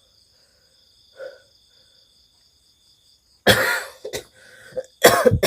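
A man coughs hard twice, about three and a half seconds in and again near the end, over steady high chirping of crickets and other night insects.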